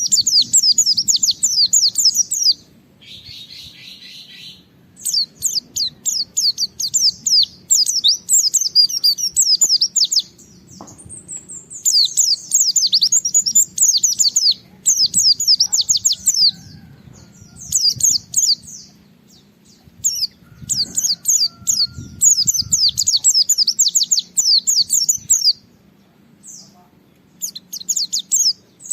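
White-eye (pleci) singing in rapid phrases of quick, high, down-slurred notes, each burst lasting one to three seconds with brief pauses between. A buzzier, lower phrase comes about three seconds in.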